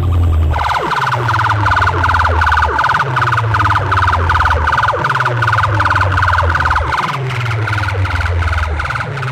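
A competition DJ track played loud through a large sound-box system: a rapidly pulsing, siren-like electronic tone over a heavy bass beat that hits about once a second.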